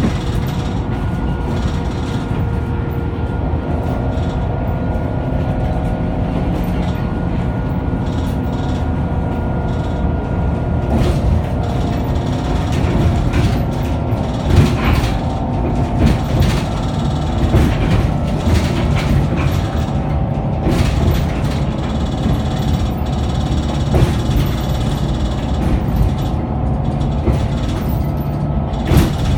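Scania K94UB bus's engine and drivetrain running under way: a steady low drone with several whining tones that change pitch about ten seconds in. From then on, loose rattles and knocks from the body join in.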